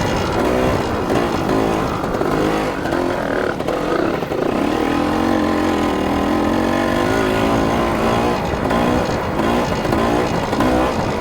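Single-cylinder 250 dirt bike engine being ridden, its pitch climbing and dropping again and again as the throttle opens and closes, with a steadier stretch of even running about halfway through.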